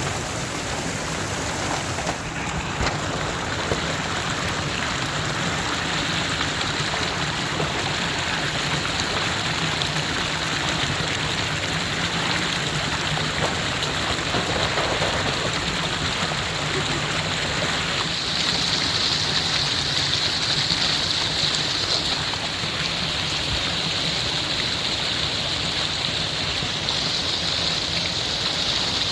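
Steady rushing water of a mountain waterfall or stream, an even hiss without a break, growing a little brighter about eighteen seconds in.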